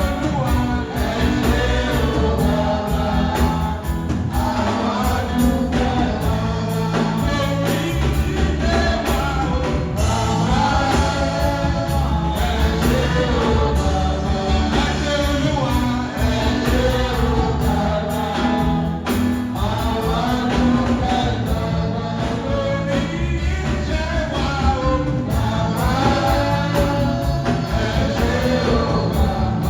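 Gospel music: voices singing together over a steady bass line and beat.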